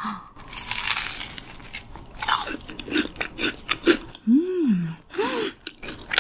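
Crisp deep-fried menbosha (shrimp toast) being bitten and chewed: a loud crunching bite, then a run of sharp crunches. Near the end come two short rising-and-falling 'mmm' hums of appreciation.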